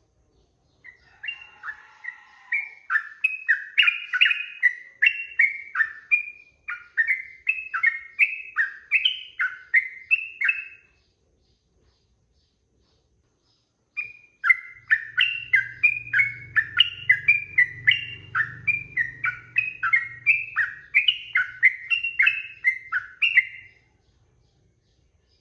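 Yellow-vented bulbul (trucukan) singing in two long bouts of quick, repeated, swooping notes, each bout about ten seconds, with a pause of about three seconds between them.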